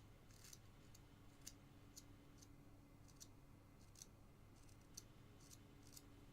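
Faint small cuts of a carving knife in basswood: about a dozen soft, short clicks and scrapes at uneven intervals, over a faint steady low hum.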